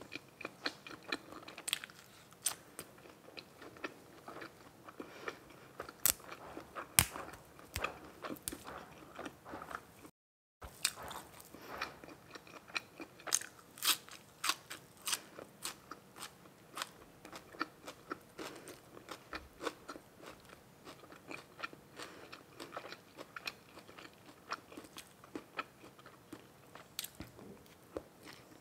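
Close-miked mukbang eating: biting, crisp crunching and wet chewing of grilled pork balls with raw shallots, several irregular crunches and mouth clicks a second. The sound drops out for a moment about ten seconds in.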